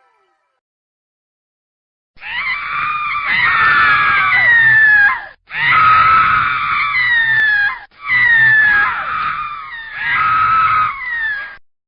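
Screaming sound effect: a voice screaming in three long stretches, the pitch sliding downward, broken by two short gaps.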